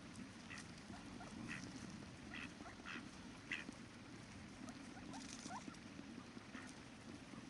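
Ducks quacking in short calls, several in the first few seconds and fainter ones later, over the steady sound of flowing river water.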